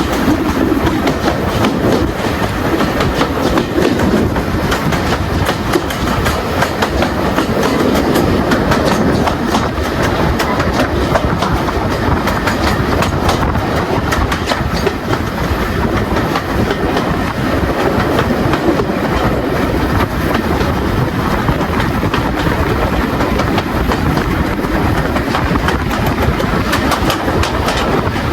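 Train running along the line, heard from aboard: a steady rumble with the wheels clicking over the rail joints.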